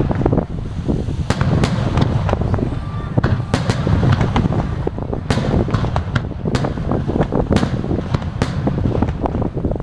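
Aerial fireworks bursting in quick succession: many sharp bangs and crackles over a steady low rumble.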